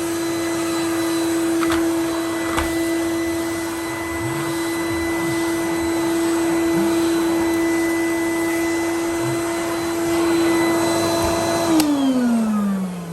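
Blue 1994 Numatic Edward tub vacuum cleaner running at a steady high motor whine over the rush of air, a couple of light clicks early on, then switched off near the end, its motor winding down in a falling pitch. It runs smoothly and is called quite powerful.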